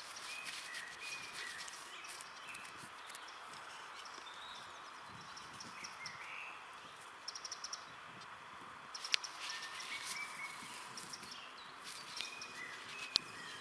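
Woodland birds chirping and calling in short repeated phrases, with a brief fast trill, over a steady background hiss. A sharp click about nine seconds in and another near the end.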